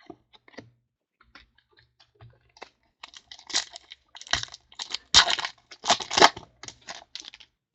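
Trading card pack wrapper crinkling and tearing as a pack is opened, loudest from about three seconds in, after a few light taps of cards being handled.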